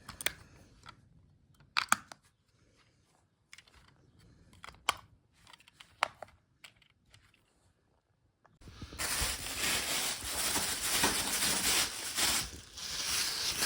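Small plastic clicks and knocks as AA batteries are pressed into an air-conditioner remote's battery compartment. About two-thirds of the way through, a loud rough noise starts suddenly and carries on to the end.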